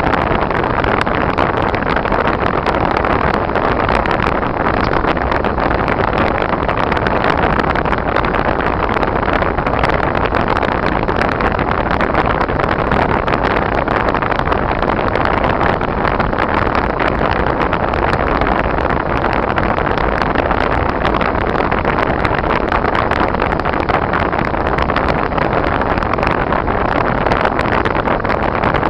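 Steady road noise of a car being driven: an even rushing hiss of tyres and engine that holds constant, with no changes in pitch or level.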